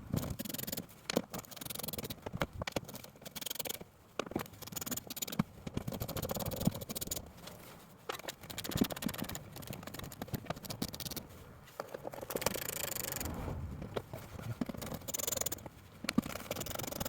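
Screws and small bolts being undone from a car's plastic inner wheel-arch liner with a hand tool: irregular clicking and scraping of metal on plastic.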